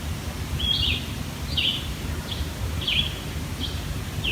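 A bird repeating a short, high chirp about every two-thirds of a second, some notes ending in a quick downward slur, over a steady low background rumble.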